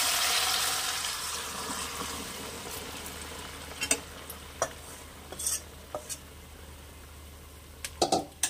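Boiled dal with vegetables hitting hot mustard oil in a kadai: a loud sizzle, strongest at first and dying down over about three seconds. A few light knocks of metal cookware follow, with louder clinks near the end.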